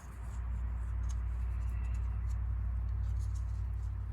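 Teflon tape being wrapped around the threads of an air-line fitting: faint light scratching and crinkling over a steady low hum.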